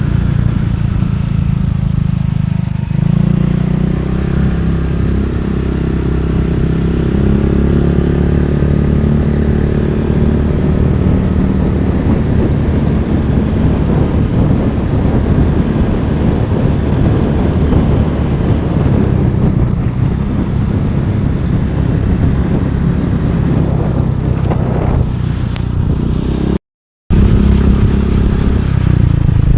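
Motorcycle engine running steadily while under way, its pitch shifting about three seconds in. The sound cuts out completely for a moment near the end.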